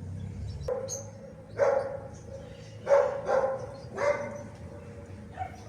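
A dog barking, about five short barks spread over three or four seconds.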